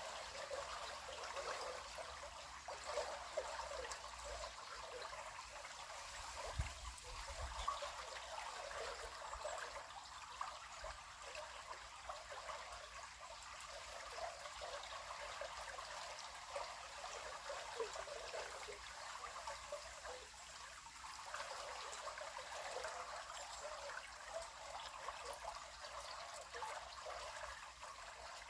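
River water flowing and trickling in a steady babble.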